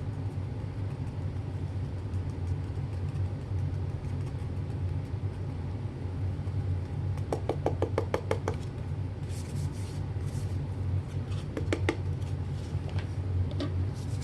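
Steady low hum throughout, with a quick run of about a dozen clicks roughly halfway through and a few scattered clicks and knocks after it, as equipment is handled during setup.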